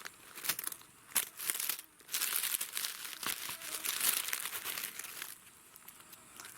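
Rustling and crackling of dry leaves and undergrowth, in short separate bursts for the first two seconds, then a denser continuous rustle for about three seconds.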